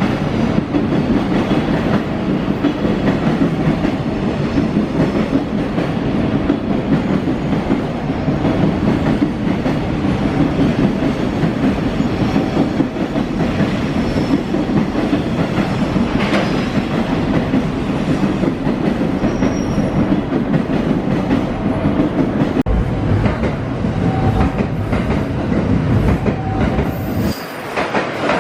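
Freight train rolling past, a steady loud rumble of its wagons' wheels on the rails.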